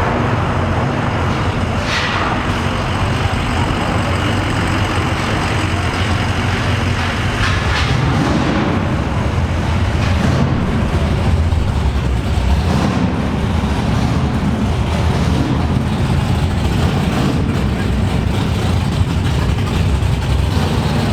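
Muscle car engine exhaust rumbling steadily at low speed, with brief sharper rises about two seconds in and again near eight seconds.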